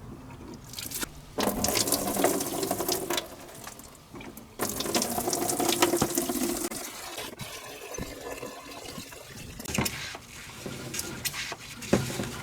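Fuel being pumped out of the car's fuel tank, splashing into a container in two main surges with scattered clicks and knocks.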